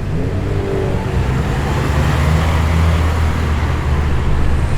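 A performance car's engine running at low revs as the car rolls past close by, a deep steady note that grows louder about two seconds in.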